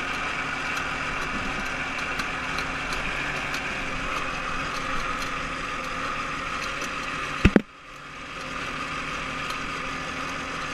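OMC Cobra stern-drive boat engine idling steadily. About three quarters of the way through there is a loud bump, after which the engine sound is briefly quieter before it comes back up.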